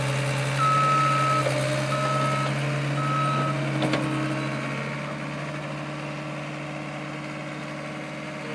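Skid steer engine running steadily while its backup alarm beeps three times in the first few seconds as the machine reverses, the first beep longer than the other two. A single sharp knock about four seconds in.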